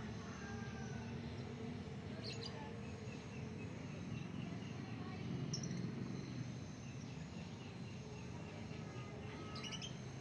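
Steady low background rumble with a few short, high bird chirps, about three across the stretch.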